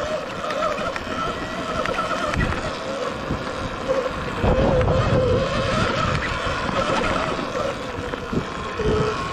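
Sur-Ron electric dirt bike riding off-road, its motor whining and rising and falling slightly with the throttle. Wind buffets the microphone in low rumbling gusts, most strongly about halfway through.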